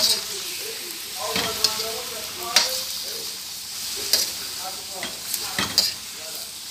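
Shrimp, onion and garlic sizzling in a stainless steel wok as they are stirred with a metal spoon. The spoon clinks and scrapes against the pan several times over the steady sizzle.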